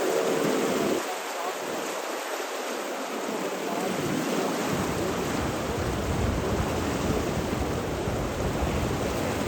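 Steady rushing water, an even hiss, with a deeper low rumble joining about halfway through.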